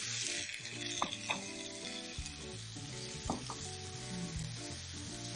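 Chopped tomatoes and onions sizzling in hot oil in a non-stick frying pan, the sizzle loudest as the tomatoes go in and then easing, while a spatula stirs and knocks against the pan a few times.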